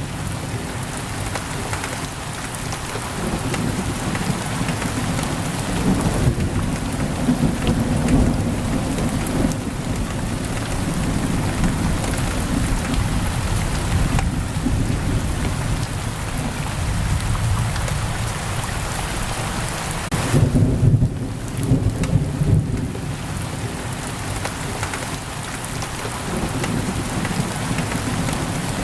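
Heavy rain pouring steadily on a window, with thunder rumbling low underneath and swelling loudest about twenty seconds in.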